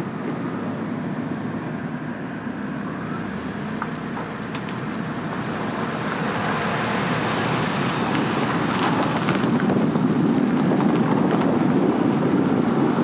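Steady road and engine noise of a vehicle on the move, growing somewhat louder about halfway through.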